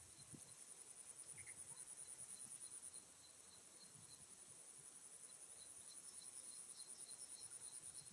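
Insects trilling: a faint, high-pitched, rapidly pulsing trill that breaks off about three seconds in and then resumes, over a softer regular ticking.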